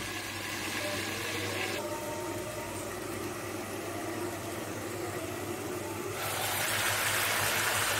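Chicken pieces frying in a kadai under a closed glass lid: a steady, muffled sizzle over a low hum. About six seconds in, the sizzle turns louder and brighter as the lid is lifted.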